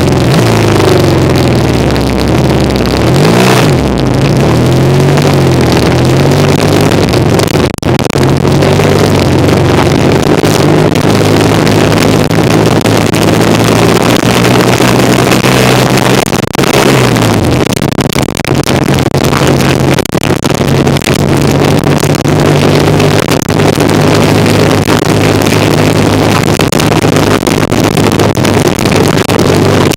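1975 Kawasaki KZ400 cafe racer's parallel-twin engine running under way on a ride, with wind rushing over the bike-mounted microphone. The engine note rises and falls a few seconds in and changes again about halfway through, then holds steady.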